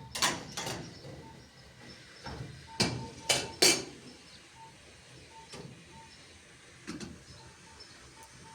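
A series of sharp knocks: two near the start, three loud ones in quick succession about three seconds in, then a few fainter ones.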